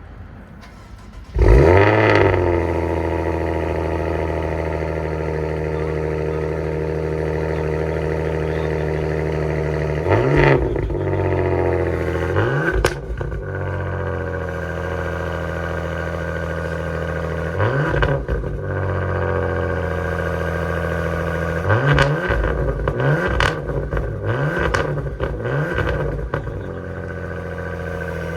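A 2020 Maserati Ghibli Gran Sport S Q4's turbocharged V6 on its stock exhaust cold-starts about a second in with a flare of revs, then settles into a steady fast idle. Single throttle blips come about ten, thirteen and eighteen seconds in, followed by a run of five quick revs near the end.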